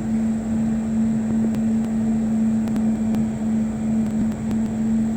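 A steady mechanical hum from a running motor, holding one even pitch, over a background hiss.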